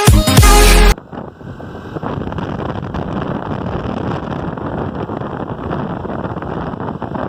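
Background music cuts off about a second in. Steady wind rush over a phone microphone follows, together with the running of a moving scooter.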